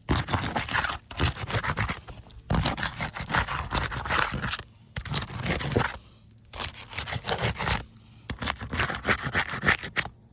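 Flat roofing bar worked under asphalt 3-tab shingle tabs, scraping and tearing through the adhesive seal strips to free the tabs and reach the nails. It goes in about six strokes of a second or two each, with short pauses between.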